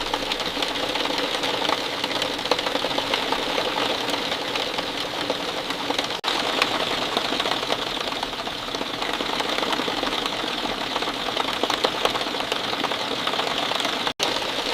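Steady rain falling, a dense patter of individual drops hitting close by. It breaks off for an instant about six seconds in and again near the end.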